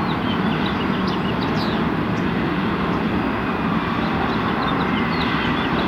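Steady outdoor rumble and hiss of construction-site and city background noise. Faint short high chirps, like small birds, come through now and then.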